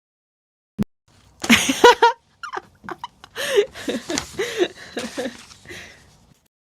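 A cat meowing over and over, a string of short calls that rise and fall in pitch, with one sharp click about a second before the calls begin.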